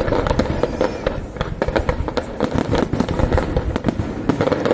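Fireworks display going off in a rapid, continuous barrage of sharp bangs and crackles, several a second.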